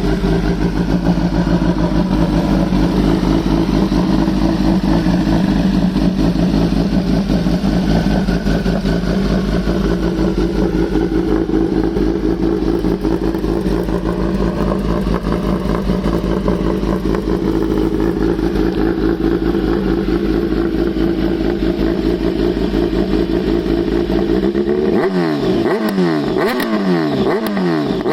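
2009 Kawasaki ZX-10R's inline-four engine through a full exhaust system, idling steadily. Near the end the throttle is blipped in about five quick revs.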